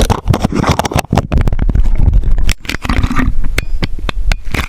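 Dirt bike being ridden over rough ground: a loud low rumble with dense, irregular rattling and knocking, and no steady engine note standing out.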